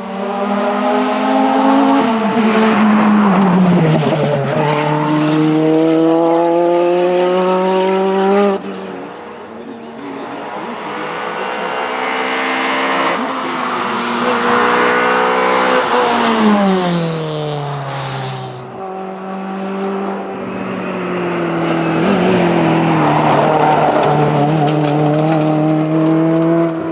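Historic rally car engines driven hard on a stage: revs climb and fall through gear changes and braking, in three separate passes that cut off abruptly about a third and two thirds of the way in. A hiss of tyre and road noise rises over the engine in the middle pass.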